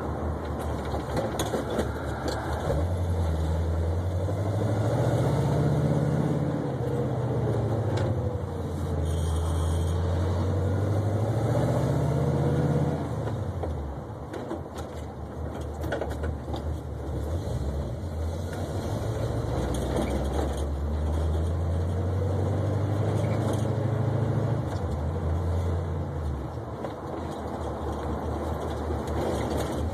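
1972 Oldsmobile 442's V8 engine running while the car is driven, heard from inside the car. The engine note climbs and falls several times as the car accelerates and eases off, dropping off sharply about 13 seconds in and again near the end.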